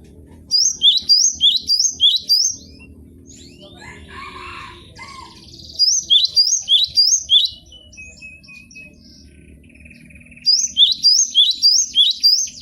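Cinereous tit (gelatik batu) singing: three bouts of quickly repeated high whistled notes, each note sliding sharply downward, with pauses of a few seconds between bouts.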